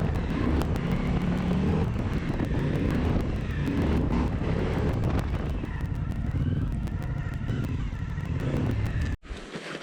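Suzuki V-Strom 1050XT's V-twin engine running at road speed, mixed with wind and road noise. It cuts off abruptly near the end.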